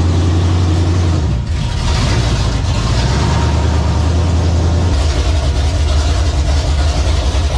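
Vehicle engine running with a loud, deep rumble. It changes pitch about a second and a half in and again about five seconds in.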